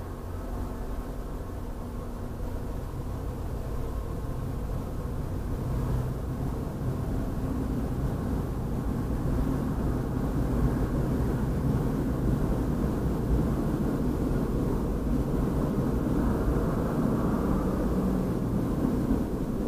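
Muffled low rumble of an MBTA commuter train's diesel locomotive pulling out of the station, heard from inside a car. It grows steadily louder and is loudest in the second half.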